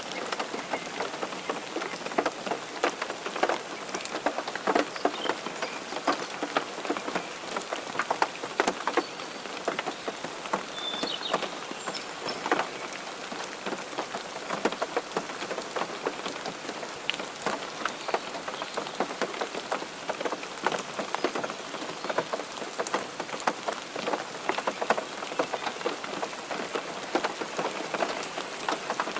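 Rain pattering steadily on a hard surface, a dense run of small, irregular drop taps.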